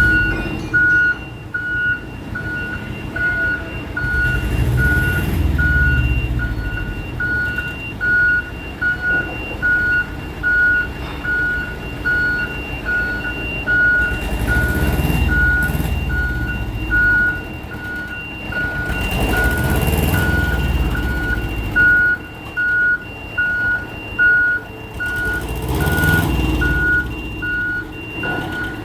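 A heavy truck's reversing alarm beeps steadily, about two beeps a second on a single pitch. Under it the diesel engine rumbles and rises in several swells as the truck manoeuvres.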